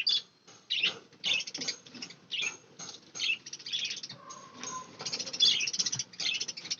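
A flock of budgerigars chattering and chirping, many short high calls overlapping without pause, as the birds get excited over food being given to them.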